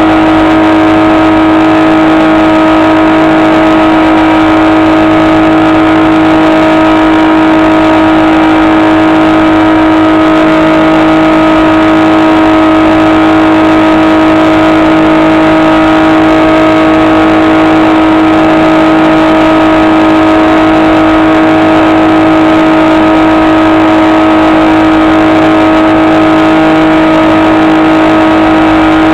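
The SkyEye's electric motor and propeller humming at one steady pitch, loud and unchanging.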